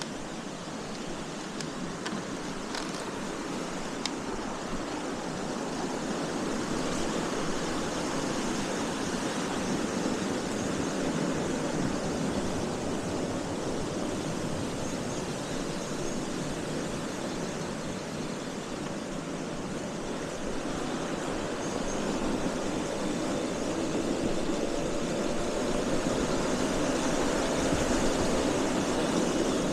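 Steady wind rush and road noise on a riding KTM 690 SMC R, a single-cylinder supermoto, gradually growing louder, with the engine note faintly rising in pitch near the end as the bike speeds up.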